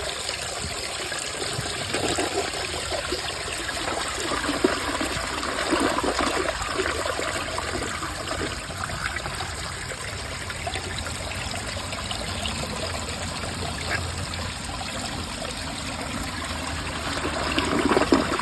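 2004 Briggs Altima toilet after a left-side flush: steady running and trickling water as the bowl and tank refill, with louder surges a couple of seconds in and again near the end as the bowl tries to siphon out a second time.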